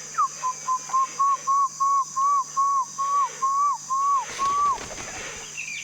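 A man whistling an animal call: a run of about fifteen short, clear whistled notes on nearly one pitch, about three a second, each rising and dropping off, stopping a little before the end. A steady high insect drone runs underneath.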